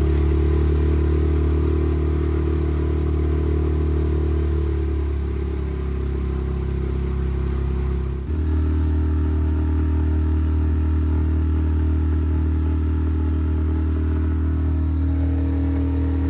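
Motorboat outboard engine running at a steady speed, with a brief dip about eight seconds in before it settles steady again.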